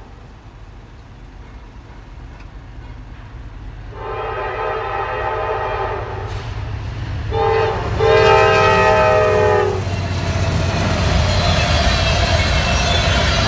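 Norfolk Southern diesel freight locomotive approaching a grade crossing, its rumble growing, while its air horn sounds a long blast, a short one and another long one, the end of the crossing horn sequence. After that, the steady rumble and rattle of covered grain hopper cars rolling past.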